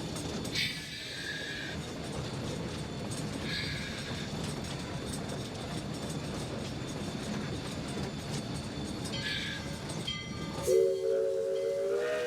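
Steam locomotive running down the line, heard from the cab: a steady rumble with three short high wheel squeals. Near the end the steam whistle sounds, a chord of several notes that rises a little and holds.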